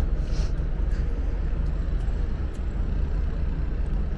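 Wind buffeting the microphone on an open deck: a steady, low rumble with no clear pitch.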